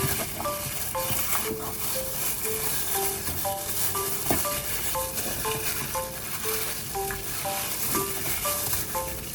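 Food frying in a pan with a steady sizzle and a few sharp clicks of a utensil, under background music of short, evenly paced melodic notes.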